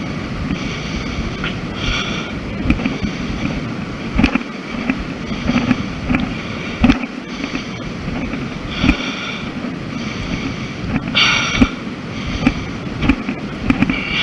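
Wind buffeting the camera's microphone in a steady rumble, with irregular footsteps and scuffs on a rocky, gravelly trail.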